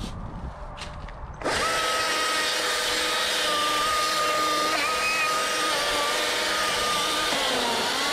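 Stihl MSA 220 battery chainsaw starting abruptly about a second and a half in and running steadily with a high electric whine, its pitch dipping slightly near the end as it works in the cut. A few soft rustles and clicks come before it.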